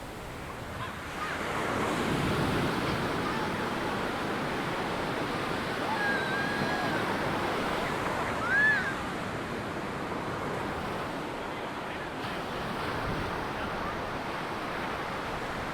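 Ocean surf washing onto a sandy beach, a steady wash of breaking waves that swells about a second in. About halfway through, a short high call rises and falls briefly above the surf, the loudest moment.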